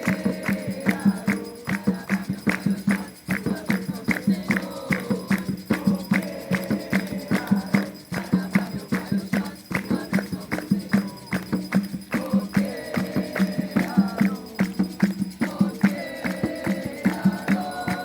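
Group singing over hand percussion keeping a quick, steady beat, in the manner of a sung Umbanda ritual chant.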